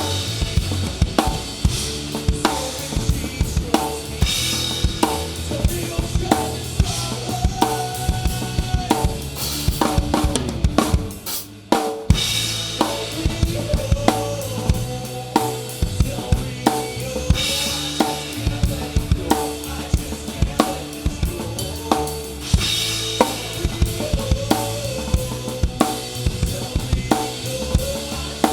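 Live band playing an instrumental passage, the drum kit loudest (kick, snare and cymbals in a steady beat), heard close up from the drums, with sustained bass and other instrument notes under it. The band stops briefly about eleven seconds in, then comes back in.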